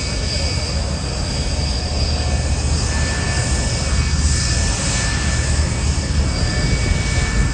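Aircraft engine noise: a steady deep rumble with a faint high whine, growing a little louder partway through.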